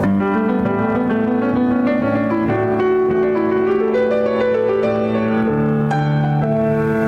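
Slow instrumental keyboard music, chords held for long stretches and changing every second or two.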